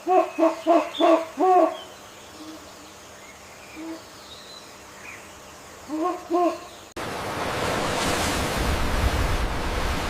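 An animal hooting in quick runs of pitched calls: about six at the start and three more near the middle. It then cuts off abruptly into a steady rushing noise.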